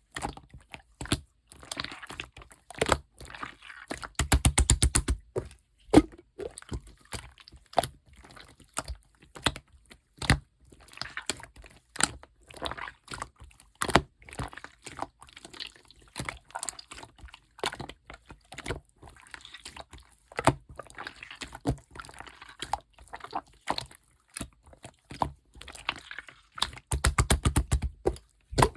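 Clear slime being squeezed and worked by hand, making sticky clicks, pops and wet squelches. There are two runs of rapid clicking, one a few seconds in and one near the end.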